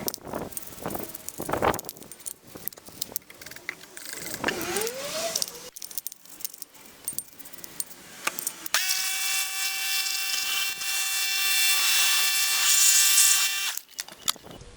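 Metal parts and hand tools clinking and knocking during engine work on a Fiat 1.1 FIRE. About nine seconds in, a power tool starts with a steady high-pitched whine and hiss, runs for about five seconds and stops suddenly.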